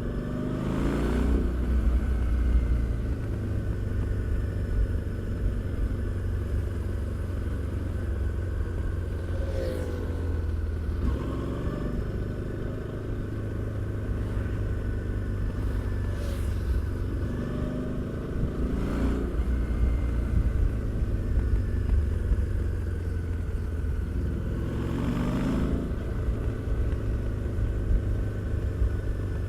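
Harley-Davidson Street 750's liquid-cooled V-twin running on the road, with a steady low exhaust rumble. The engine note climbs several times as the rider opens the throttle and then settles back.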